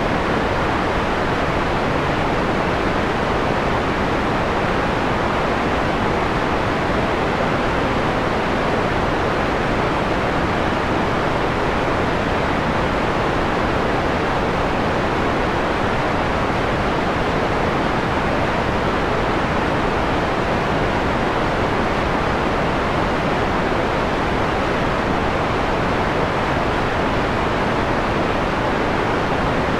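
Steady electronically generated white noise, filtered so that the high end falls away above about 4 kHz, leaving a mellow, even hiss.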